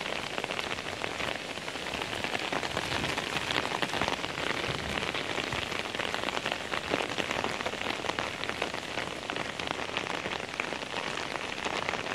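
Steady rain falling, with many sharp, close drop hits.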